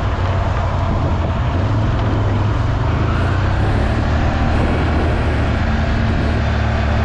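ATV engine running steadily under load, with a hiss of tyres and mud or water over it; a higher engine note joins about four seconds in.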